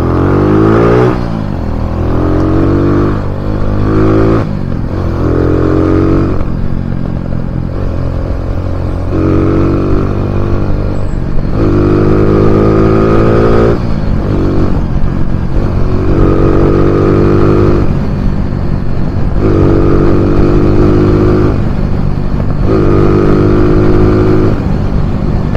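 Kawasaki W175's single-cylinder engine, breathing through a size 30 flat-slide carburetor, revving up and dropping back again and again, about nine times, each climb in pitch lasting one to three seconds.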